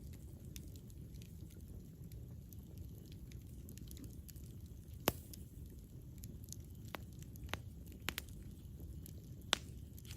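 Campfire burning: a steady low rustle of flames with scattered sharp crackles and pops of burning wood. The two loudest pops come about five seconds in and near the end.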